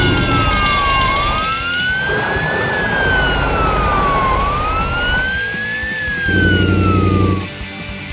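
A wailing emergency-vehicle siren, a cartoon sound effect, rising and falling slowly about every three seconds over a steady low rumble. Near the end a deep, loud tone sounds for about a second, and the siren stops.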